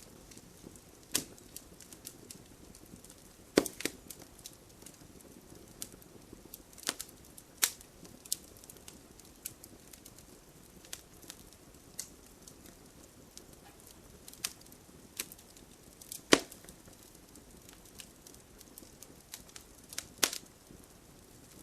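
Wood fire crackling in a fireplace: irregular sharp pops and snaps over a faint low hiss, the loudest pops about three and a half seconds and sixteen seconds in.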